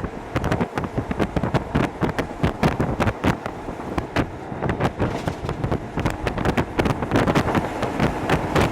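Hokuso Railway 7260 series train running on the line, heard from inside the passenger car: a steady low rumble of wheels on rail with a dense, irregular patter of sharp clicks and knocks throughout.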